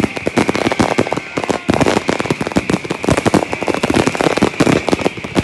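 Dense, rapid crackling and popping, many sharp pops a second, irregular and unbroken, over a steady hiss.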